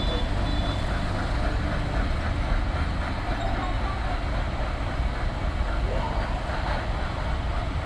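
Freight train hauled by a WAG9 electric locomotive rolling past: a steady, heavy rumble of steel wheels on rail.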